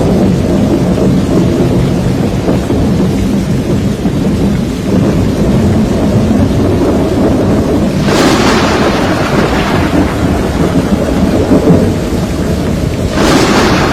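Thunderstorm: a continuous deep rumble of thunder with rain. A hiss of heavier rain or wind rises about eight seconds in and again near the end.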